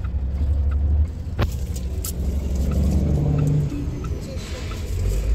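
Steady low rumble of a car, with a sharp click about a second and a half in.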